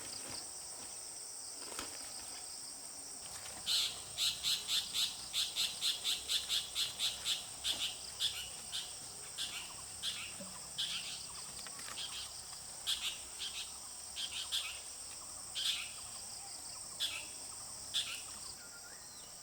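A steady, high insect drone, with a run of short repeated animal calls starting about four seconds in: about three a second at first, then slowing and spacing out until they stop near the end.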